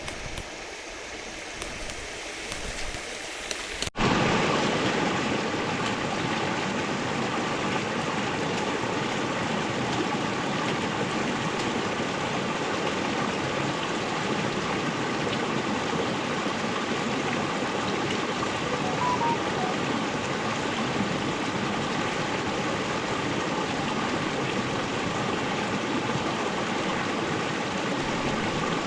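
Steady rush of running river water, with a sudden cut about four seconds in, after which the water is louder.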